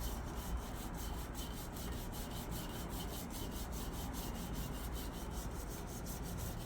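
Hand scrubbing of a patio chair, fast even back-and-forth strokes rubbing grime off the surface.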